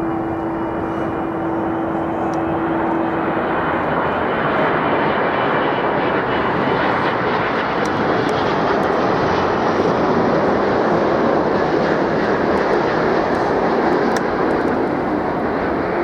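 Jet airliner engines roaring past, the noise building steadily to its loudest about ten to fourteen seconds in, then easing a little. A steady low hum sounds under it at the start and fades out after about three seconds.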